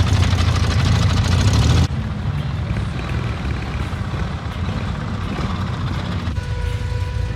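Classic vehicle engine running, a loud close rumble that cuts off suddenly about two seconds in to a quieter engine rumble. A steady high tone joins about six seconds in.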